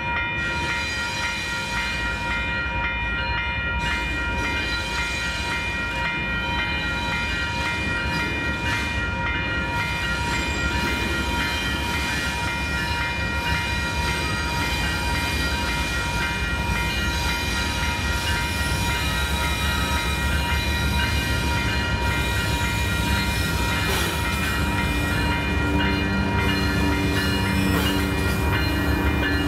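Train running close by: a steady low rumble with several steady high whining tones over it, and a lower tone coming in near the end.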